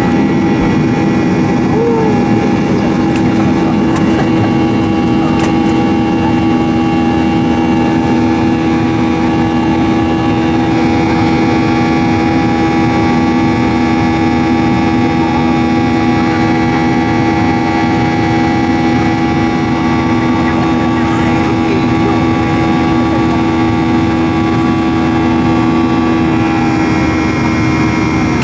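Boeing 737-800's CFM56 jet engines running steadily, heard from inside the cabin as an even drone with a hum of several fixed tones. The tones shift slightly about 11 seconds in and again near the end.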